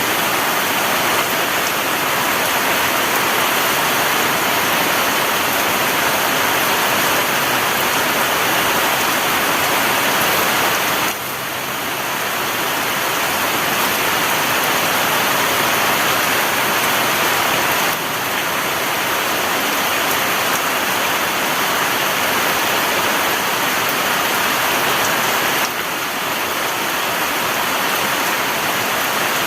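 Heavy rain pouring down steadily, a dense even hiss with small dips in level about 11, 18 and 26 seconds in.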